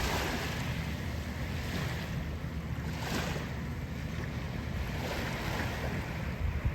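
Gulf surf washing onto the shore, its hiss swelling twice, with wind rumbling on the microphone.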